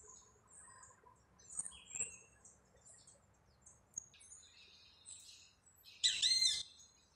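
Small birds chirping: scattered short, high chirps, and one louder bird call of several quick pitch glides near the end.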